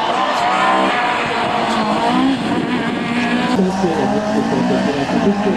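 A car's engine revving hard as it is driven through a slalom course, its pitch climbing and dropping again and again. There is a sudden drop about three and a half seconds in, as the driver lifts or shifts.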